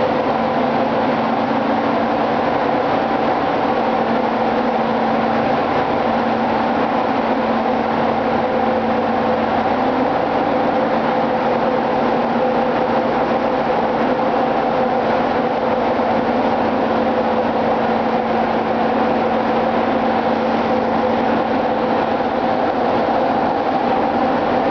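Ship's engine-room machinery running, a loud, steady drone with several constant hum tones through it.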